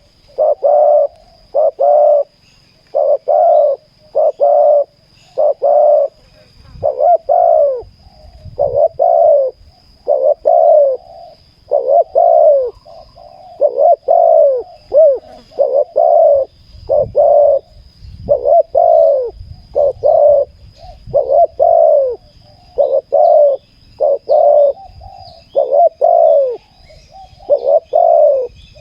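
Spotted doves cooing close by: a long run of loud, short, falling coo notes in pairs and threes, roughly one a second with brief gaps.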